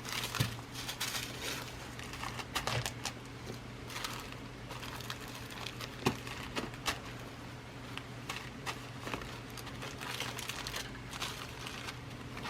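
Glass seed beads being rummaged through and handled: steady rustling with many small, irregular clicks. A steady low hum runs underneath.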